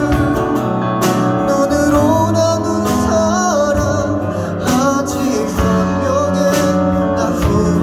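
Live band performing a Korean pop ballad: a singer carries the melody over the band's accompaniment, with percussive hits every couple of seconds.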